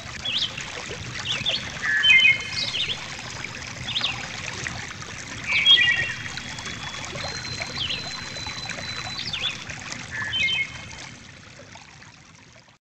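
Nature-sound recording of small birds chirping over a steady trickle of running water. The calls are short and repeated, and the whole fades out near the end.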